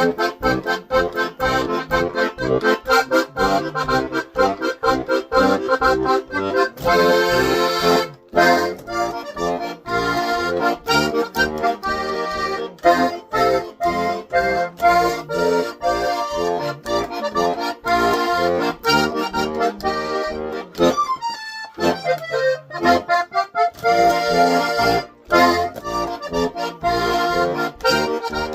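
Polka tune played on an accordion, a melody over a steady, even beat, breaking off briefly about eight seconds in.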